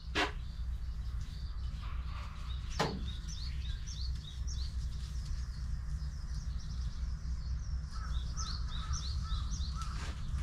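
Small birds chirping over and over, with a steady low outdoor rumble beneath and three sharp clicks: one at the start, one about three seconds in and one near the end.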